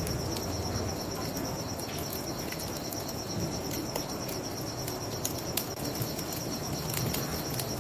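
Crickets chirping in a steady, evenly pulsing trill over a crackling wood fire, with scattered sharp pops and a low rushing background.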